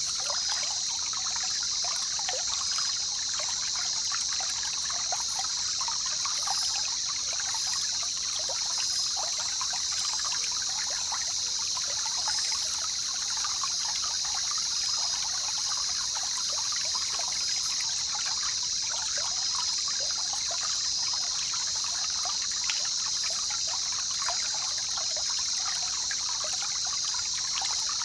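Jungle river water trickling and burbling steadily over a continuous high-pitched drone.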